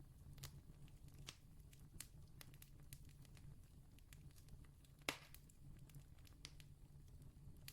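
Distant campfire crackling faintly, with scattered small snaps and one louder pop about five seconds in, over a low steady rumble.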